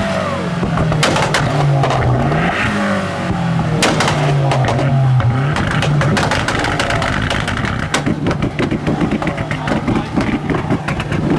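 Tuned car engines revved hard again and again against the limiter, the note climbing and dropping, with sharp exhaust bangs; from about eight seconds in, a rapid run of crackling exhaust pops as the cars shoot flames.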